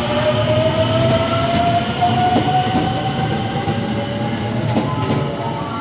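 JR West 281 series 'Haruka' electric train pulling away under power: its traction motor whine rises steadily in pitch as it accelerates, with a few clicks of wheels over rail joints about five seconds in.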